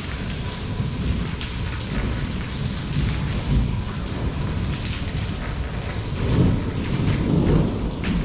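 Rain falling steadily with low rolling thunder, the rumble swelling near the end, and individual drops splashing close by.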